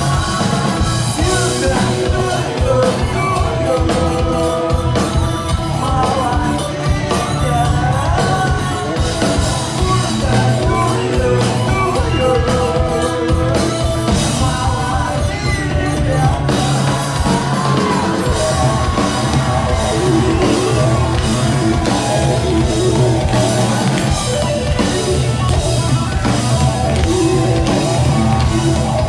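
Live rock band playing with drum kit and guitars, with a singing voice over it.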